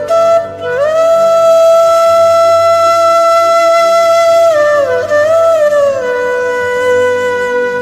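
Background music: a flute-like wind instrument plays long held notes that slide up and down between pitches, over a faint low drone. One note is held for about four seconds, then the tune slides down to a lower note that it holds to the end.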